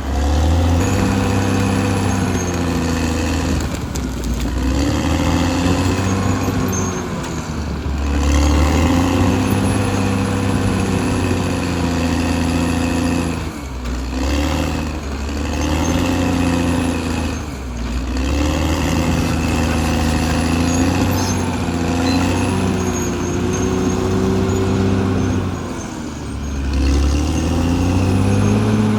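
Caterpillar D6R XL bulldozer's diesel engine running under changing load, its pitch dipping and rising again every few seconds as the dozer pushes and eases off.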